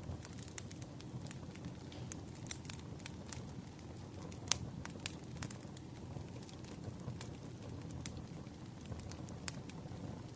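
Burning firewood crackling: irregular sharp pops and snaps over a steady low rumble, with one louder pop about halfway through.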